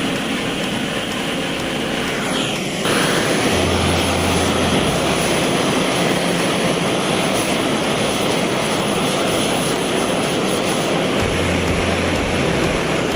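Gas torch flame burning steadily, heating the parts for a silver-soldered joint; it gets louder about three seconds in and holds there.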